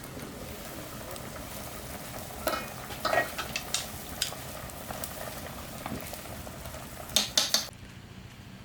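Food sizzling as it fries in a pan while being stirred, the utensil scraping and clinking against the pan several times. The sizzle drops away near the end.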